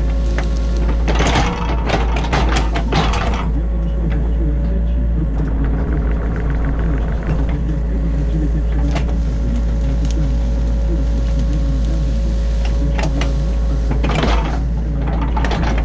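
New Holland E50.2 excavator heard from inside the cab, its diesel engine running steadily under hydraulic load. Bursts of rough scraping noise come about a second in and again near the end.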